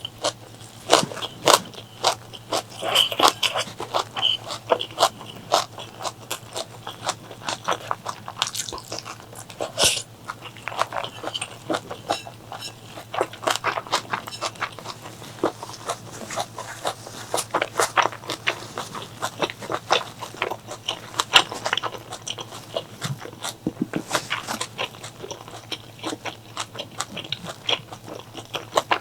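Close-miked mouth sounds of a person biting and chewing food: dense, irregular wet crunches and clicks throughout, over a faint steady low hum.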